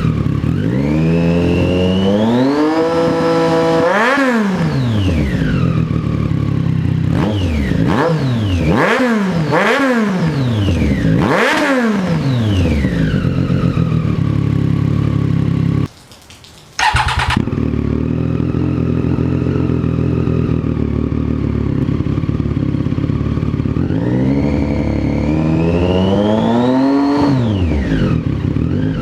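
Triumph Street Triple 765 three-cylinder engine revving through its exhaust. It gives one long climb in revs, then a run of quick throttle blips, a short break, a steadier stretch and another rev near the end.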